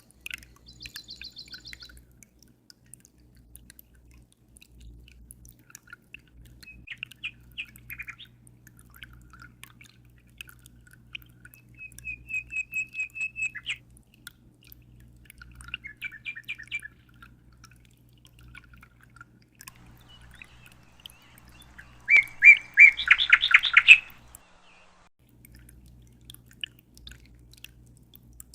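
Birds chirping and calling in short, scattered trilled phrases, the loudest a quick run of repeated notes about three quarters of the way through, over a faint steady low hum.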